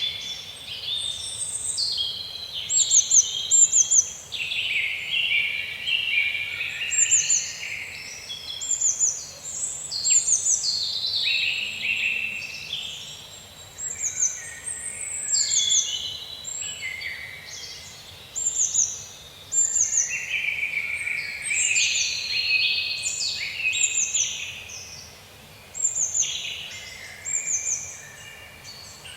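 Forest birdsong: several birds singing over one another without a break, short, quick, high chirps that fall in pitch mixed with lower warbled phrases.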